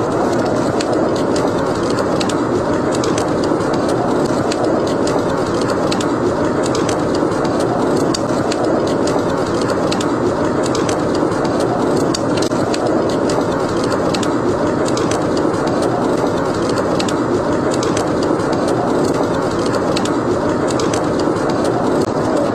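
Steady howling of snowstorm wind, swelling and easing slowly, mixed with a wood fire crackling: many small sharp pops throughout.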